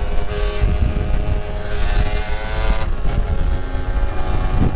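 Yamaha RX-King's two-stroke single-cylinder engine running under way, its note growing stronger and then easing about three seconds in, over a low wind rumble on the microphone.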